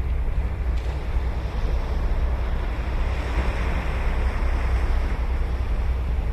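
Ocean surf breaking and washing up a beach, one wave's wash swelling about two seconds in and easing off near the end, over a steady low rumble of wind on the microphone.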